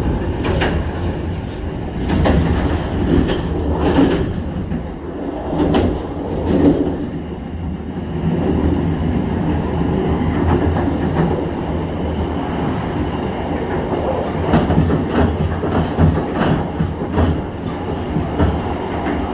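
Argo Wilis express train running on the track, heard from the rear of the train as it picks up speed. The steady rumble of its wheels is broken by irregular clacks as they pass over rail joints and the station's points.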